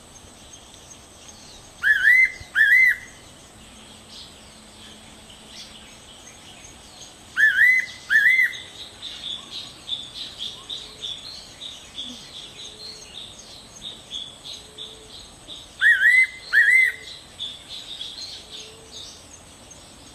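Fairy pitta singing its two-note whistled song three times, each a loud pair of clear arched whistles. Softer, rapid high chirping from other birds runs through the middle part.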